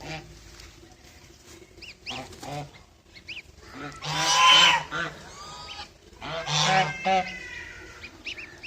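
Birds calling: two loud bouts of calls about four and six and a half seconds in, with short, higher calls between them.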